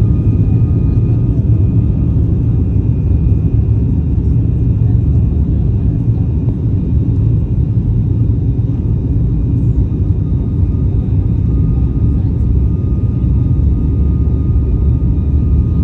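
Boeing 737 MAX 9 airliner's CFM LEAP-1B turbofan engines during the takeoff, a loud steady deep rumble with a faint high whine over it.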